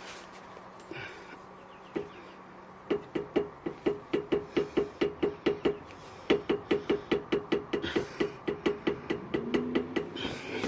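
Drag link end on a 2018 Jeep Wrangler JL clicking in a quick, even series, about five clicks a second with a short break near the middle: play in the drag link end.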